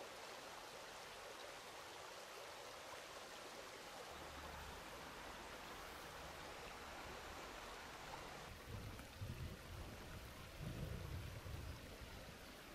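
Faint steady rush of a flowing river, with a few low rumbles in the last few seconds.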